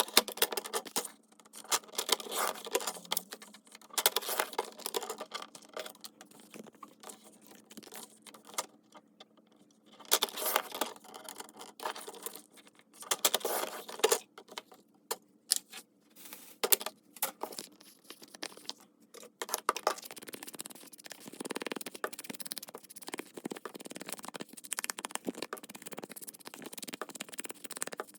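Paper and craft materials being handled on a desk: irregular rustling, scraping and light tapping, with busier spells of handling.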